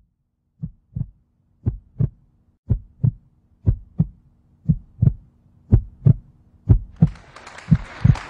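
Heartbeat sound effect: paired low 'lub-dub' thumps about once a second, over a faint steady hum. About seven seconds in, a rushing noise swells in under the beats.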